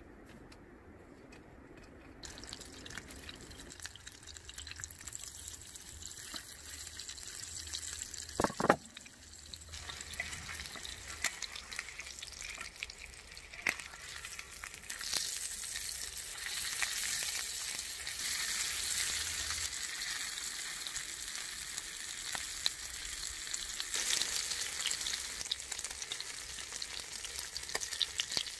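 Food frying in a pan: a steady sizzle with many small crackles, growing louder about fifteen seconds in. A brief sharp sound stands out about eight seconds in.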